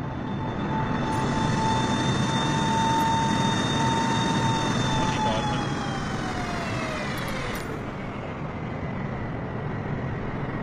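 Jet airliner engines running with a rushing noise and a high whine; about five seconds in, the whine falls steadily in pitch.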